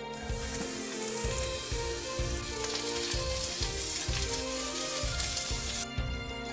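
Sliced onions sizzling in hot vegetable oil in a nonstick frying pan as they are dropped in and stir-fried. The sizzle starts just as they go in and cuts off suddenly near the end, over background music with a steady beat.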